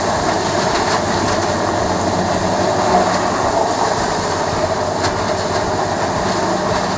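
Morbark 1300B tub grinder, powered by a Caterpillar C32 diesel, running with a loud, steady mechanical din. A faint high whine above it dips slightly about two-thirds of the way through.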